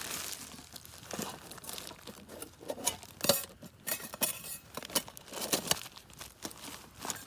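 Irregular rustling and crinkling broken by sharp clicks and knocks, the loudest a little over three seconds in.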